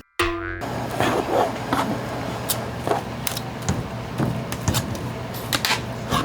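Kitchen work sounds: scattered knocks and clatter over a steady hiss and low hum, with a short tone just after the start.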